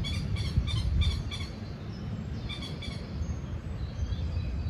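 Birds calling: quick runs of short, repeated chirps in the first second and a half and again about halfway through, over a steady low rumble.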